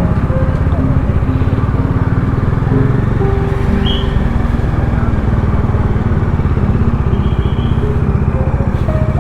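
Motorcycle engine running steadily while riding at highway speed, with a fast, even pulse of firing strokes. Brief high tones sound faintly a few times.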